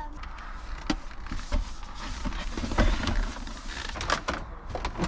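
A bin being dried off by hand: steady rubbing and rustling of a towel against it, with a few light knocks as it is handled.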